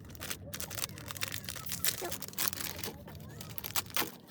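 Irregular rustling and crinkling with many short clicks, as of something being handled close to the microphone.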